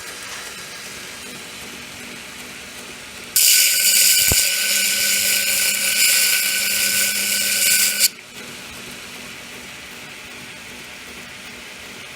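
Heretic Hyperlite 2x72 belt grinder running slowly at about one-eighth power with a steady hum. About three seconds in, grinding against the moving belt starts loud and rough, runs for about five seconds, then stops abruptly.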